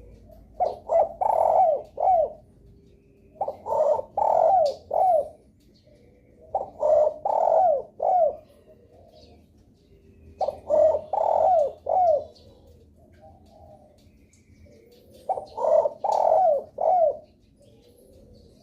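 Derkuku dove cooing: five phrases, each a quick run of four or five coos, a few seconds apart. It is a lure call used to get other derkuku to answer and call.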